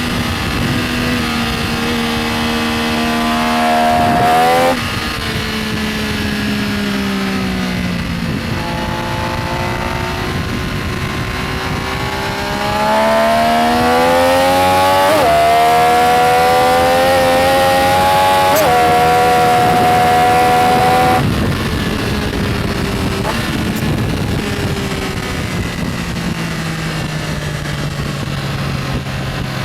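Benelli Tornado Tre 900's inline-three engine accelerating hard through the gears, the note climbing and then dropping sharply at each upshift. About two-thirds through, the throttle closes and the engine note falls steadily as the bike slows.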